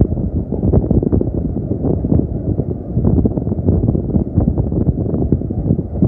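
Wind buffeting the microphone: a loud, irregular low rumble that keeps gusting up and down.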